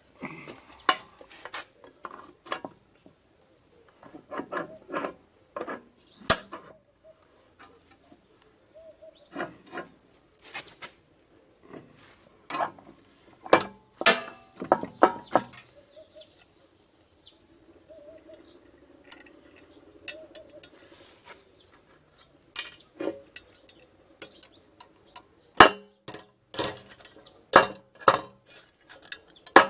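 Irregular metallic clinks and knocks as a metal lamp part is handled and bent straight, some strikes sharper and louder, with a quieter stretch in the middle.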